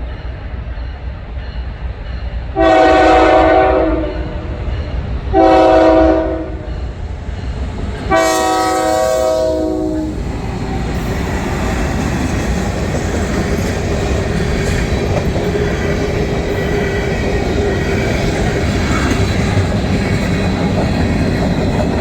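Fouled K5HL five-chime air horn on a GE ES44DC locomotive sounding for a grade crossing: a long blast, a short one and a final long blast, the end of the crossing signal. About ten seconds in, the horn stops and the two GE diesel locomotives and freight cars roll past with a steady rumble and wheel clatter.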